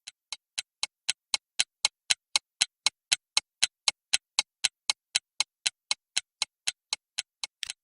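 Clock-like ticking sound effect, even ticks at about four a second, swelling in at the start and fading away near the end.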